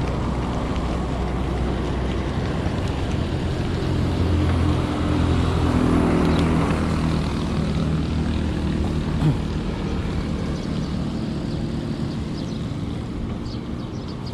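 Motor vehicle engine running with a low hum that swells and rises in pitch about four to seven seconds in, then slowly fades, over steady road and wind noise.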